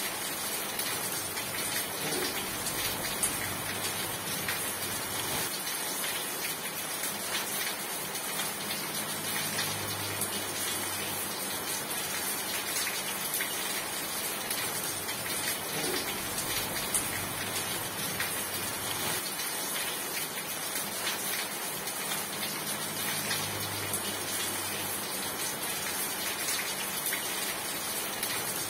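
Steady heavy rain, an even hiss with scattered taps of individual drops. A faint low hum swells up twice underneath.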